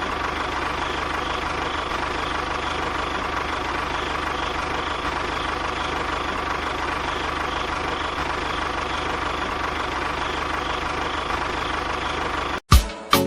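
A motor running steadily with an even hum, cut off abruptly near the end, followed by a sharp hit.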